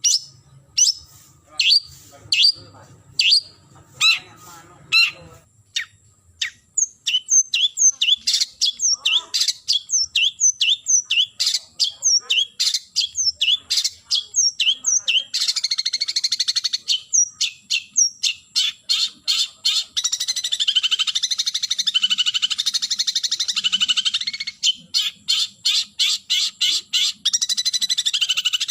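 Long-tailed shrike (cendet) giving its challenge call to a rival: sharp, high falling notes, spaced out at first and then coming quickly. From about halfway it breaks into long, unbroken harsh chattering runs, then goes back to separate notes near the end.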